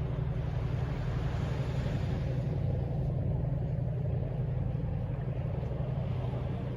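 Steady hum of distant city traffic, with one vehicle passing and swelling louder in the first few seconds.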